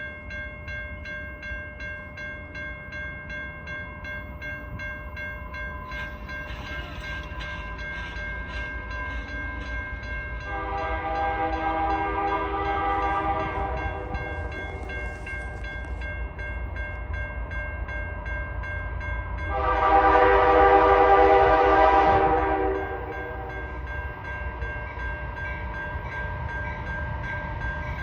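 Freight locomotive's Nathan K3L air horn sounding two long chords, the first about ten seconds in and the second, louder one about twenty seconds in, over the steady rumble of the approaching train. A steady ringing runs underneath.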